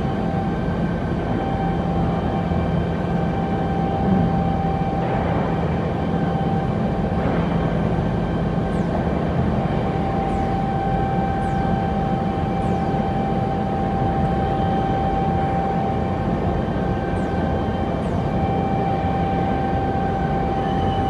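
Omaksan Holemaster 4000 X Line CNC drilling and boring machine running: a steady high whine over constant mechanical noise, with a brief swell in loudness about four seconds in.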